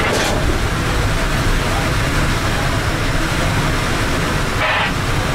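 Steady running noise of a SunRail commuter train in motion, a continuous low rumble with rushing noise over it. A short hiss comes just after the start, and a brief higher-pitched sound comes near the end.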